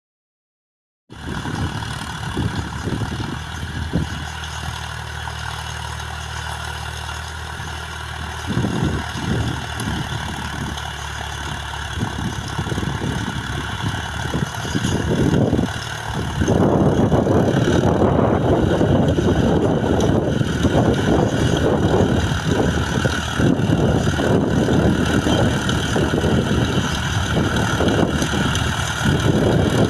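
John Deere tractor engine idling steadily, then running louder and rougher from about halfway through.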